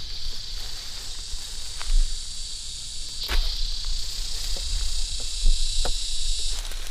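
Steady high-pitched buzzing of insects that stops suddenly near the end, over scattered light clicks and rustles of movement and a low rumble.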